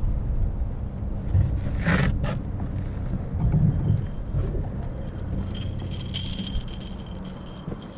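Fishing tackle being handled, with rustling, scraping and a click, over a steady low rumble, ending in a sharp knock as a lead sinker slams into the boat's windshield.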